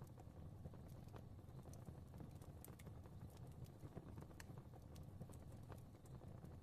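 Fire crackling softly: a low, steady rumble of flames with irregular small pops and snaps scattered throughout.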